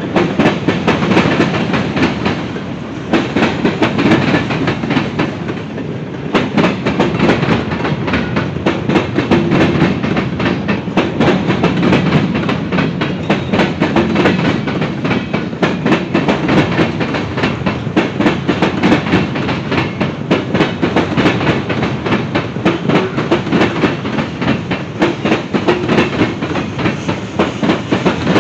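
Freight train cars rolling past close by: a continuous rumble with a rapid, steady clickety-clack of wheels over rail joints.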